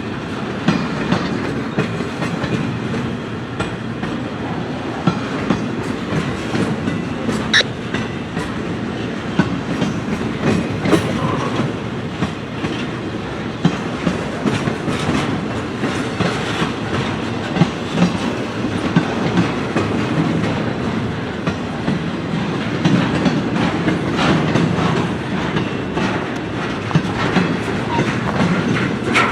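Freight train cars rolling past, their wheels clicking steadily over rail joints, with a brief high squeal a little over seven seconds in.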